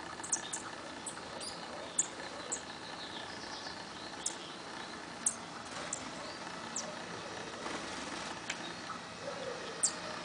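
Wild birds giving short, high-pitched chirps, about a dozen scattered over a few seconds, against a steady outdoor background hum.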